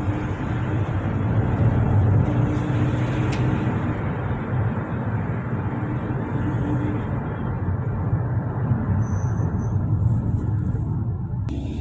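Steady motor-vehicle traffic noise with a low engine rumble, changing abruptly shortly before the end.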